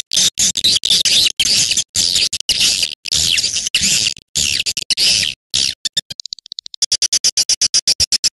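Swiftlet lure call track: fast runs of sharp, high chirps and buzzy twittering, with a short softer patch about six seconds in. It is the kind of recorded call played to draw swiftlets into a nesting house.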